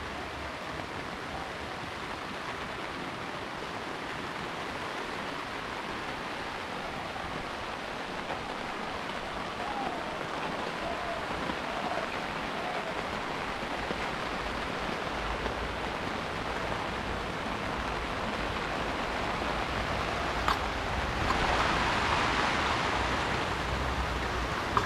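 Steady rain falling, an even hiss that swells louder near the end, with a single sharp tick just before the swell.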